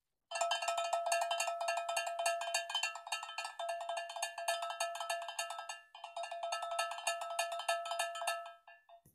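A metal bell rung rapidly over and over, with a brief break about six seconds in, then fading out near the end.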